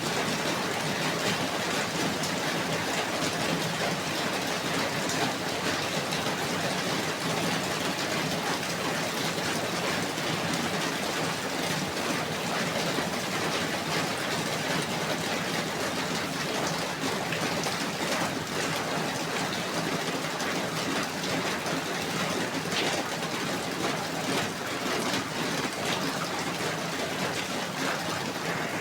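Steady rainfall: an even hiss of many drops with faint scattered patters, cut by a brief dropout at the very end.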